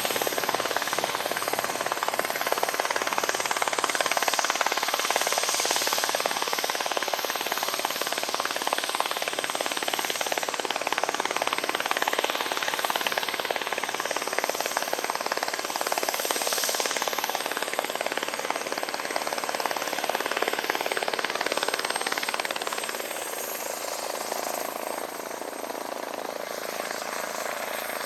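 Eurocopter EC-145 helicopter running close by: dense rotor chop from the main rotor with a steady high whine from its twin Turbomeca Arriel turboshaft engines. The sound gets somewhat quieter about 23 seconds in.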